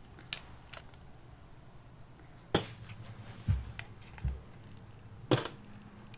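Scattered clicks and knocks of a bracket and hand tools being handled and set down: two sharp knocks stand out, with two dull thumps between them.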